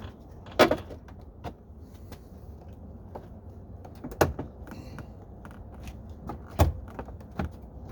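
Sharp knocks and clicks of a plastic door trim panel on a 2002 Chevy Avalanche being pulled and pried against its clips, three loud ones with smaller taps between. The panel will not come free because a hidden screw still holds it.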